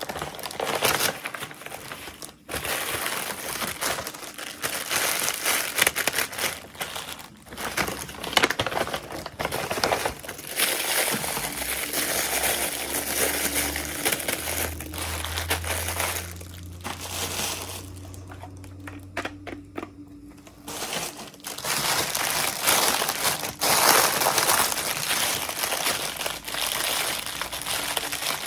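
Crinkly packaging crumpling and crackling as a toy package is unwrapped by hand, in a near-continuous stream of rustles. There is a brief quieter stretch about two-thirds of the way through.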